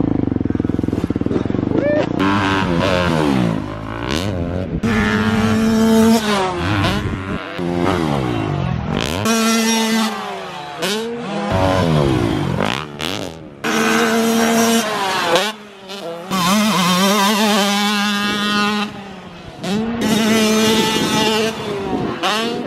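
Dirt bike engines revving on a motocross track, the pitch climbing and dropping again and again as the bikes accelerate, shift and back off, with a few short lulls.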